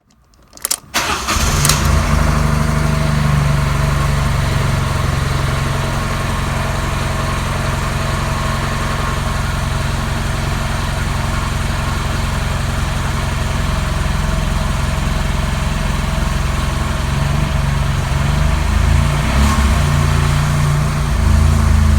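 Fiat 500 TwinAir's 0.9-litre turbocharged two-cylinder engine starting: a brief crank just under a second in, catching about a second and a half in, then idling steadily. The idle wavers a little near the end.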